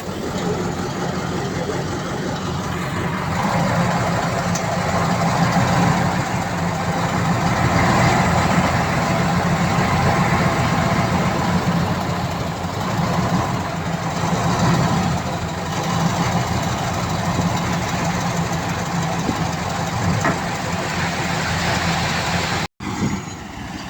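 Heavy diesel engine of earthmoving machinery running steadily under work, with a low hum that grows louder a few seconds in and eases off later. The sound cuts out abruptly for a moment near the end.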